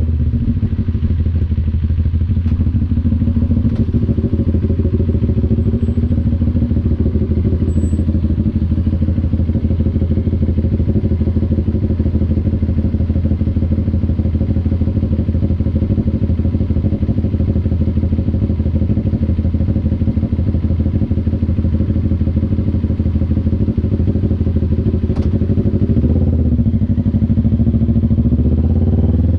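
CF Moto NK400 parallel-twin motorcycle engine and exhaust running at a steady cruise; near the end the note dips briefly and then rises as it accelerates.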